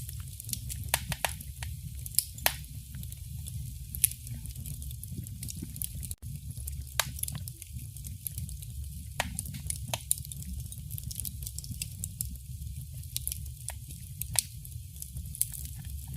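Wood fire crackling in a fireplace: irregular sharp pops and snaps over a steady low rumble of the flames, with a momentary dropout about six seconds in.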